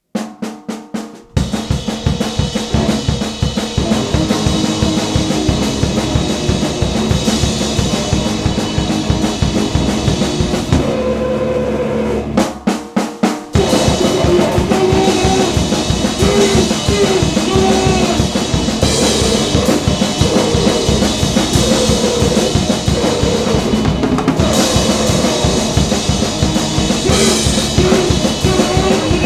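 A grindcore/noise band playing loud and fast: a drum kit hitting rapidly under a dense wall of distorted noise. It opens with a few separate drum hits, and about eleven seconds in it drops to a few spaced hits before the full band crashes back in.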